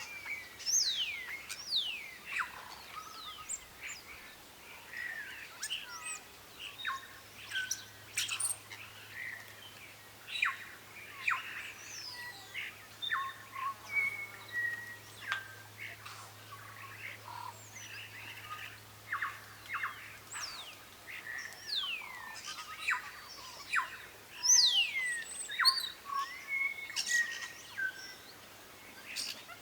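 Several birds calling at once: many short chirps and quick downward-sweeping whistles overlap, with the loudest calls near the end.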